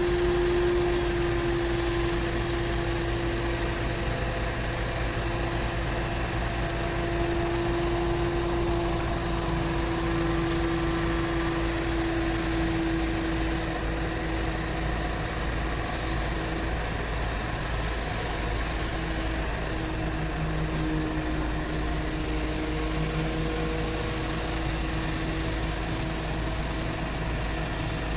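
XCMG QY85K truck-mounted crane's engine running steadily, with a steady whine over the engine hum that fades out briefly about two-thirds of the way through and then returns.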